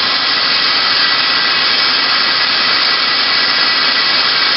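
Kia KH40A horizontal machining center running with a loud, steady hiss and no clear pitch.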